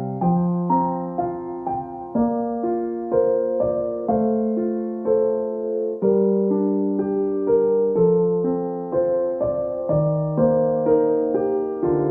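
Background piano music: a gentle, slow melody of struck notes that ring and fade, with a new chord every couple of seconds.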